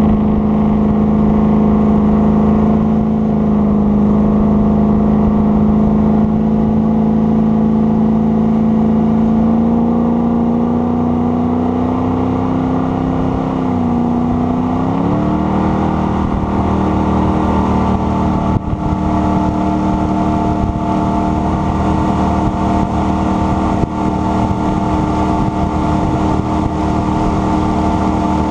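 Jet boat engine running steadily under way; about halfway through the engine note climbs, dips briefly, then settles at a higher steady pitch as the throttle is opened.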